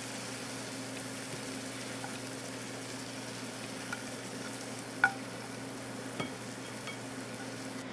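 Sweet potato pieces frying in oil in a pan, a steady sizzle with a few small sharp pops; the sizzle cuts off just before the end.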